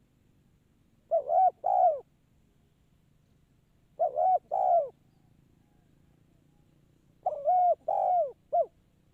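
Spotted dove (tekukur) cooing: three phrases about three seconds apart, the first two of two notes each and the last of three.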